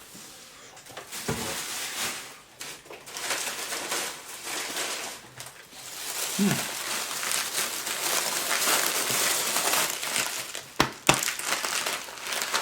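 Candy wrappers and packaging crinkling and rustling steadily as they are handled, with two sharp knocks near the end.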